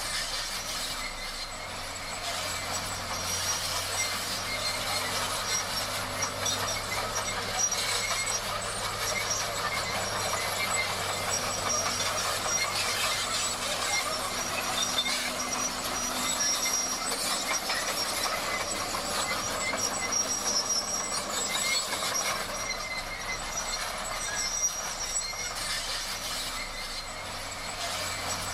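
Crawler bulldozer at work, its steel tracks clattering and squealing over the steady run of its diesel engine.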